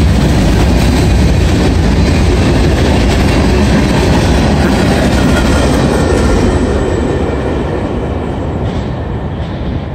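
Freight cars of a mixed manifest train rolling past on the rails, a steady rumble and clatter of wheels that fades over the last few seconds as the end of the train moves away.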